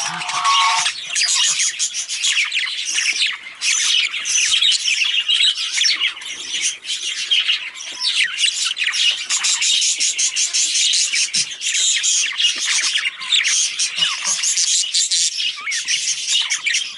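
Male budgerigar chirping and chattering in a fast, continuous stream of high-pitched calls, with only brief breaks.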